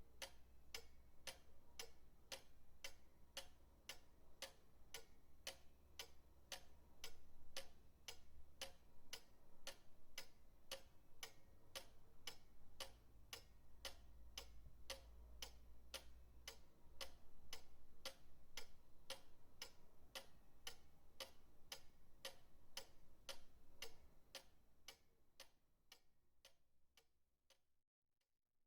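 Pendulum clock ticking steadily, about two ticks a second, fading out near the end.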